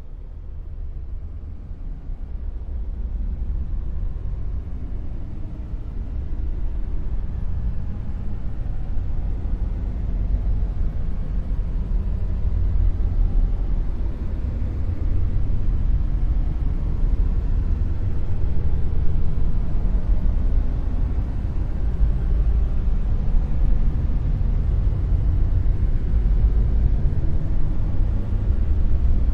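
Dark noise: a deep, steady rumbling hiss with most of its weight in the bass and no distinct tones, swelling gently over the first several seconds and then holding level.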